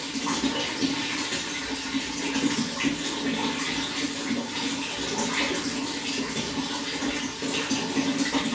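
Running water flowing steadily, with a constant rush and a dense patter of small splashes and gurgles.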